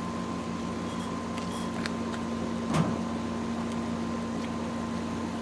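1960s GE Hi-Thin Line window air conditioner running with its cabinet refitted: a steady hum from its rotary compressor and fan over the rush of airflow. A single short click about three seconds in.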